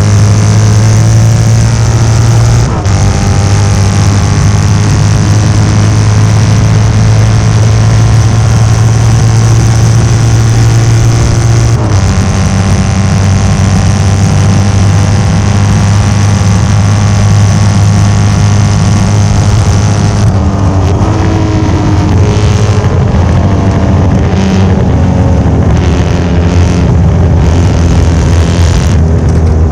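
Norton 750 short-stroke parallel-twin engine running hard at racing speed. It holds a steady note for long stretches, with short breaks about three and twelve seconds in. In the last third its pitch rises and falls more.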